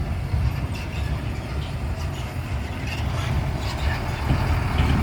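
Heavy cargo truck's diesel engine running with a steady low rumble, with a few faint clatters over it.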